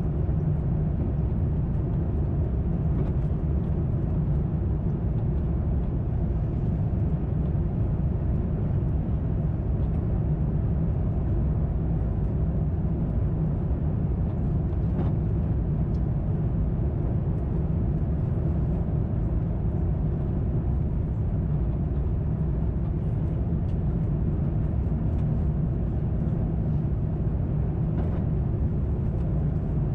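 Steady low cabin drone of an Airbus A350-900 in flight, the noise of its Rolls-Royce Trent XWB engines and the airflow heard from a window seat.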